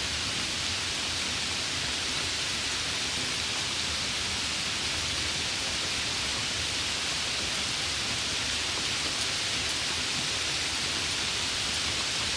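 Steady rain: an even, unchanging hiss.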